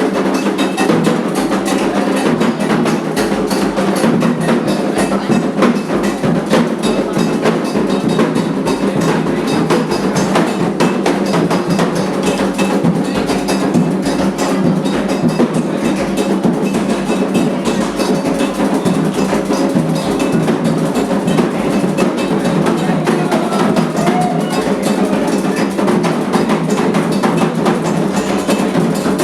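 Candomblé ritual drumming: atabaque hand drums with a struck metal bell, playing a dense, steady rhythm.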